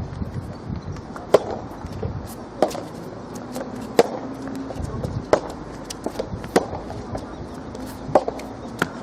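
Soft tennis rally: rackets striking the soft rubber ball in turn, giving a sharp hit about every 1.3 seconds, with fainter clicks in between.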